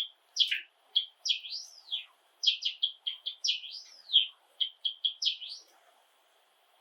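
Java sparrow singing: a quick string of chirps and up-and-down whistled notes that stops about a second before the end.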